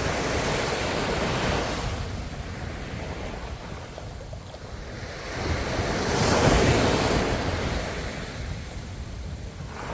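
Ocean waves washing onto the shore in a steady rush, one wave breaking louder about six seconds in and then receding. Wind buffets the microphone throughout.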